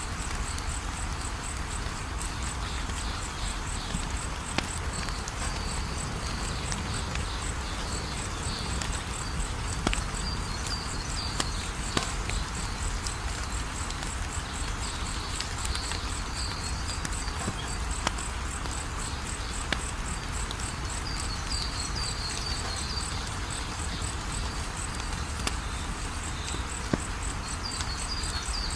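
Wood fire crackling, with scattered sharp pops over a steady hiss, while crickets chirp in a fast, even rhythm throughout.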